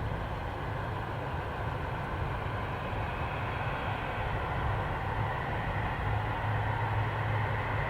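Boeing 767 jet engines running, a steady rushing noise over a low rumble that grows gradually louder.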